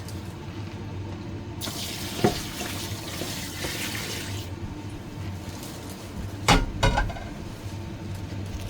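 Boiled soy sauce being poured over garlic scapes in a container, a rushing pour that lasts about three seconds. Two sharp knocks follow near the end.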